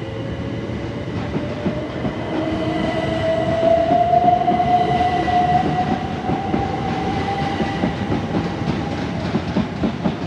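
Class 375 Electrostar electric multiple unit pulling away, its traction motors whining in a tone that rises as it gathers speed, loudest about four seconds in, then eases. Under it run the rumble and clatter of the wheels on the track.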